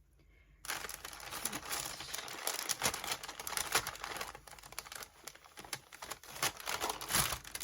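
Packaging crinkling and rustling as a card-making kit box is opened and its contents handled, a dense run of crackles and small clicks starting about half a second in.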